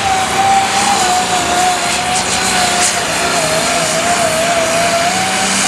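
Light super stock pulling tractor's turbocharged engine running at full power under load during a pull, with a high, wavering whine over the engine noise that stops shortly before the end.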